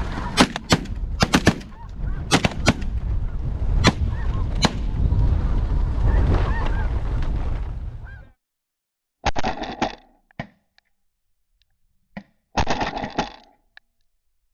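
Snow geese honking over strong wind on the microphone, with a rapid volley of about eight shotgun shots in the first five seconds. The sound cuts off about eight seconds in, followed by two short bursts.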